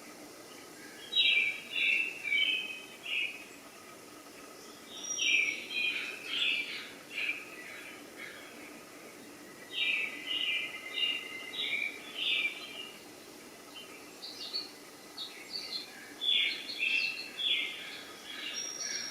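Bird chirping in four quick, high-pitched runs a few seconds apart, over a steady hiss.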